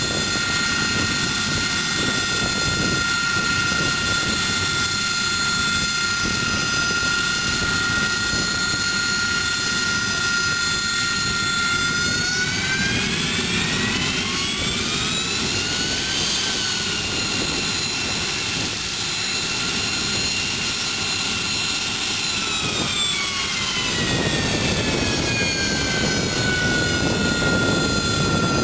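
Aircraft turbine engine running with a high, steady whine over a rumble. About halfway through the whine rises in pitch as power is increased, holds for several seconds, then sinks back to its earlier pitch as the engine is throttled back.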